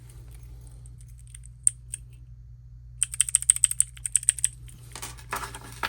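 Keycap being pressed onto a key-switch keychain clicker, then the switch clicked rapidly: a couple of single clicks, then a quick run of about fifteen clicks in a second and a half. Handling noise rustles near the end.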